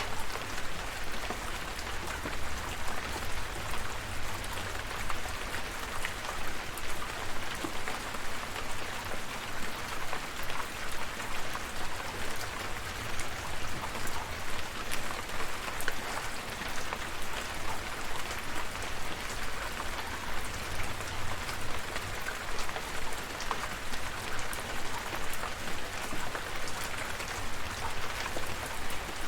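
Steady rain falling, a constant hiss of many small drop ticks, with a low steady rumble underneath.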